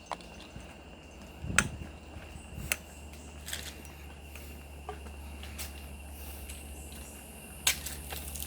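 Footsteps crunching and cracking on dry leaf litter and twigs, in irregular steps with a couple of louder snaps, over a steady high insect tone.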